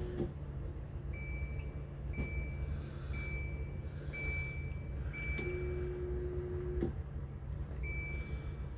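Countertop dishwasher beeping repeatedly, a short high beep about once a second, over a steady low hum. About five and a half seconds in, a lower hum starts with a click and stops with another click about a second and a half later. The machine is not running its cycle normally; the owner suspects something is in the way of the spray arm or that she overfilled it.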